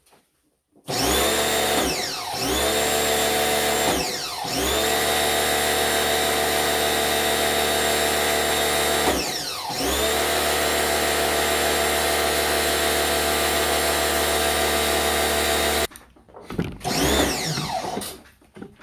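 A handheld electric motor tool running at full speed in a long spell. It briefly slows and spins back up three times, then is switched off near the end.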